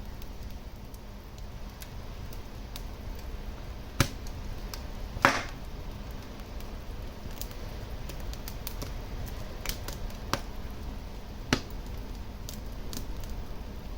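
Wood fire burning in a fireplace: a low steady rumble under scattered crackles, with a few sharper pops, the loudest about four and five seconds in.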